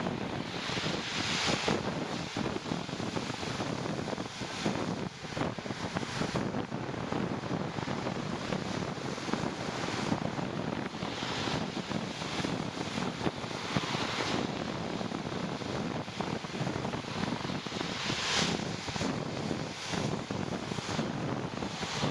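Wind rushing over the microphone of a bicycle riding in the rain, over a steady hiss, with louder rushes swelling up several times.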